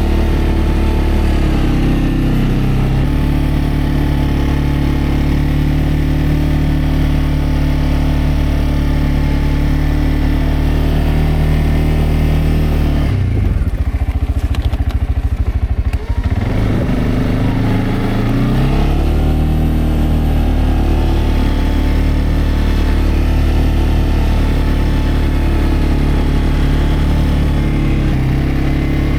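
CFMoto CForce 520L ATV's single-cylinder engine running steadily, dropping to a low, uneven idle about thirteen seconds in, then revving back up about three seconds later.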